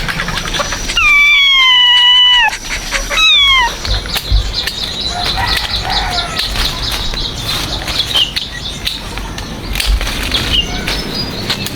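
Newborn piglet squealing twice: one long, high, steady call of about a second and a half, then a short one that falls in pitch, over a background of small clicks and chirps.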